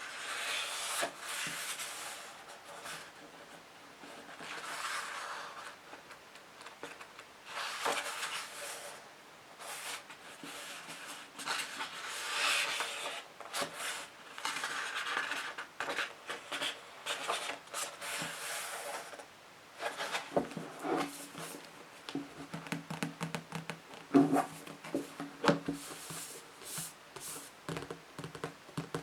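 Scratching and rubbing on books in slow strokes of a second or two each, then quick tapping on them, a rapid run of sharp taps through the last third.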